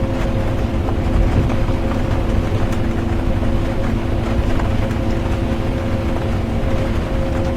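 Bus interior ambience: the steady drone of the bus's engine and road rumble, with a constant hum holding two fixed tones, mixed with light rain.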